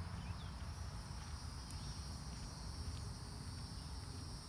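Insects trilling steadily in a high, continuous drone, over a low rumble.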